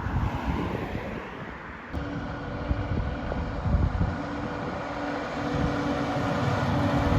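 Heavy truck engine rumble with road noise as traffic passes. About two seconds in, a steady engine note comes in over the rumble.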